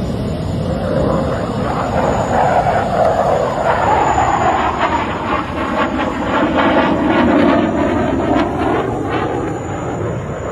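Fighter jet's engine noise as the jet flies past, a loud continuous rushing sound that shifts in pitch, with rapid crackling through the middle seconds.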